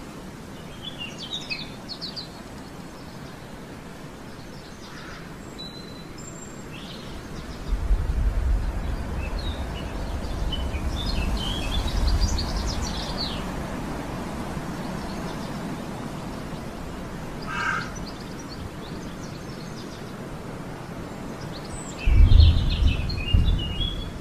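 Small birds chirping and twittering in short scattered bursts, over a low rumbling noise that swells about a third of the way in and again near the end.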